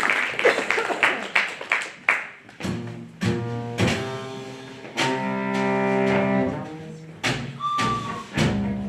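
Applause dying away over the first couple of seconds, then a bowed string instrument playing long, low sustained notes, several of them begun with a sharp attack.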